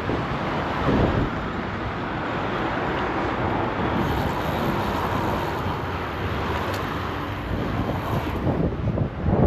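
Road traffic noise: a steady rush of passing vehicles, with low gusts of wind buffeting the microphone about a second in and again near the end.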